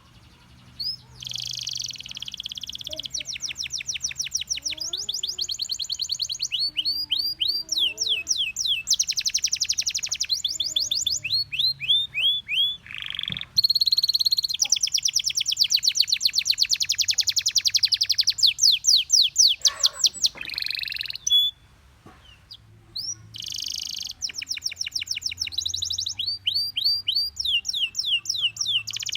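Gloster canary singing a long song of trills: each phrase is a run of rapidly repeated notes, and the speed changes from phrase to phrase. There is a brief pause about two-thirds of the way through, and a faint low hum sits underneath.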